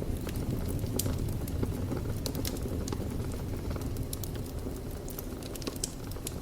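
Wood fire burning in a fireplace: a steady low rumble of flames with constant irregular sharp crackles and pops.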